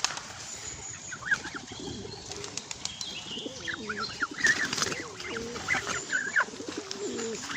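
Pigeons cooing again and again, with short high peeps from goslings over them and a few brief flaps of wings.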